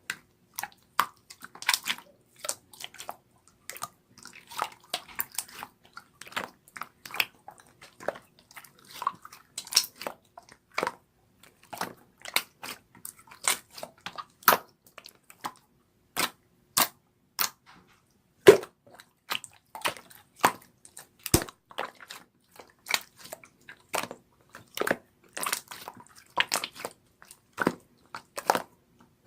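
A close, irregular run of crisp clicks and crunches, several a second throughout, with a louder crack near the middle.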